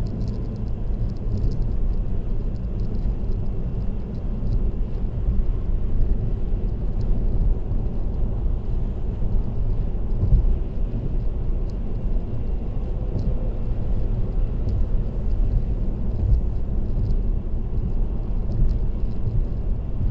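Steady road and tyre noise with a low rumble from a car cruising on an expressway, picked up inside the car.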